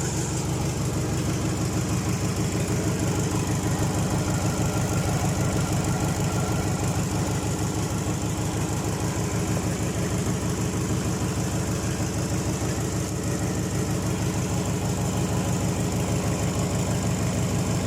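Freshly overhauled Mitsubishi 4D32 four-cylinder diesel engine idling steadily with an even, rapid pulsing beat, on its first break-in run just after starting.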